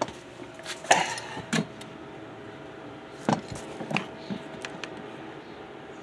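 Scattered light knocks, clicks and rustles of hands searching and moving things about, while looking for a dropped rubber vacuum cap. A faint steady hum runs underneath.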